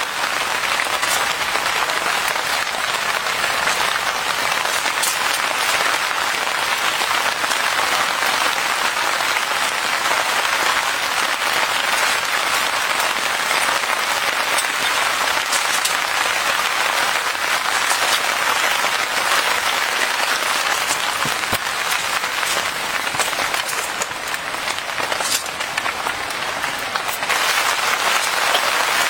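Heavy rain falling steadily, a dense hiss with scattered sharper drop hits, easing slightly a little before the end and then picking up again.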